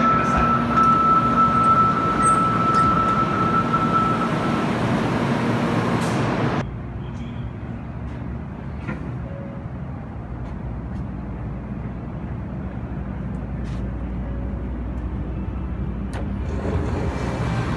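Platform noise beside a standing Shinkansen Sakura train, with a steady high tone for the first few seconds. About six and a half seconds in it drops suddenly to the quieter hum inside the train car, where a low rumble slowly builds toward the end.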